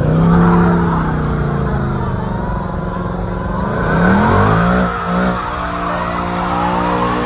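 Car engine revving hard as it accelerates away, its pitch climbing right at the start, then again about four seconds in before holding steady.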